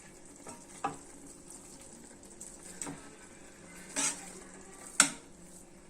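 A serving spoon knocking against the rim of a cooking pot as cooked rice is tipped off it in a layer over the biryani gravy: a few separate sharp clinks, the loudest near the end, over a faint steady hiss.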